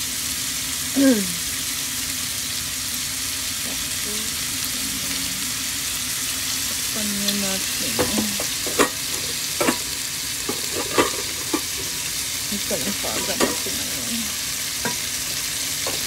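Chicken pieces frying in hot fat in a pan with a steady sizzle, a utensil scraping and knocking against the pan in irregular clicks through the second half. A brief falling squeak about a second in is the loudest single sound.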